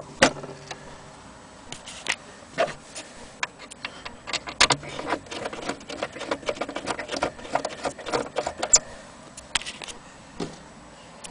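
Irregular mechanical clicks and light rattles from an antique German HAC strike wall clock, thickest through the middle and thinning out near the end, not an even tick.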